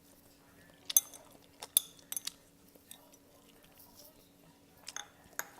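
Eating utensils clinking and clicking against a dish: a quick cluster of sharp clinks from about one second in to just past two seconds, and two more near the end, over a faint steady hum.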